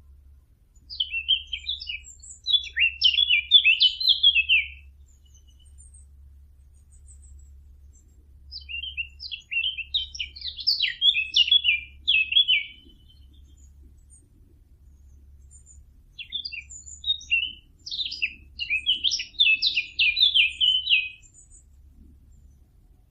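Song of the bird hunters call the fig bird (ʿuṣfūr at-tīn), a small songbird, played as a lure call. It comes in three phrases of rapid, high twittering notes, each about four seconds long, with a few seconds' pause between. A faint low hum runs underneath.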